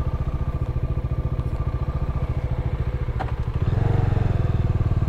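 Single-cylinder motorcycle engine idling with an even, rapid pulse; a click about three seconds in, then the engine gets louder as the bike pulls away.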